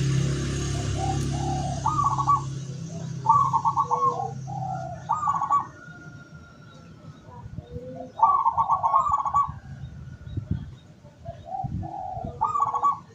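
Zebra doves (local perkutut) cooing: repeated rhythmic, rapidly pulsed coo phrases with pauses between them. A low hum sounds under the first two seconds or so.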